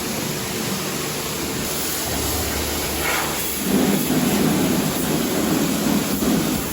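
High-pressure car-wash wand spraying plain water onto a car's bodywork: a steady hiss of spray that turns louder and heavier a little over halfway through.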